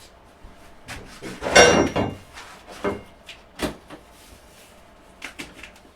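Cardboard box being opened and its packaging handled: flaps and packing scraping, with one louder squeaky scrape about a second and a half in and a few sharp knocks after it.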